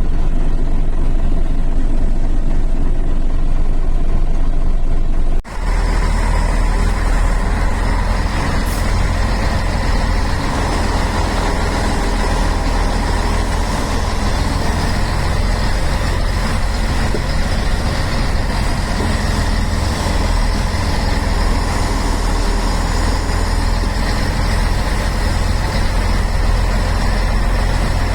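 Scania heavy truck's diesel engine running steadily with a deep rumble. About five seconds in the sound cuts out for an instant and picks up again.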